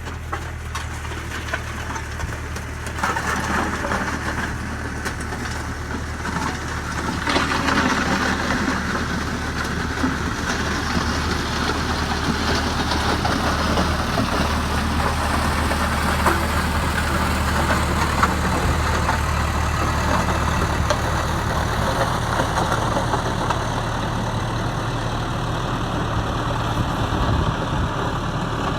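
Skid steer engine running steadily as it pushes a homemade grader blade along a dirt driveway, with rough scraping and clatter from the blades that builds up about three seconds in and again around seven seconds in.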